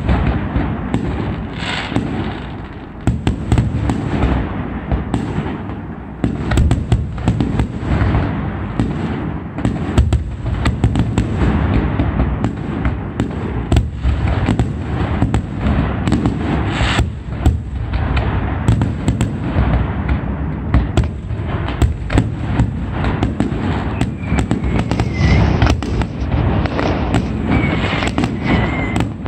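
Fireworks display going off without pause: a dense, continuous barrage of bangs and crackling, with a few short whistles from rising shells near the end.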